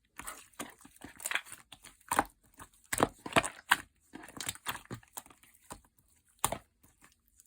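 Slime with clay mixed in, squished and pressed by hand: a run of sticky clicks and crackles, with louder pops about two, three and six and a half seconds in.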